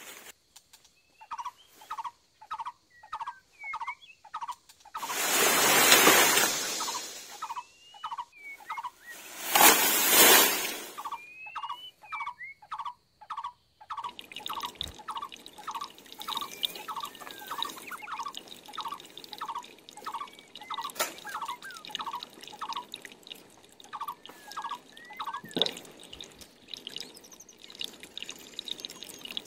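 A bird calling in a long series of short repeated notes, about two a second, with higher chirps between them. Two loud rushing bursts, each a second or two long, come in the first third, and a faint steady hiss joins in about halfway.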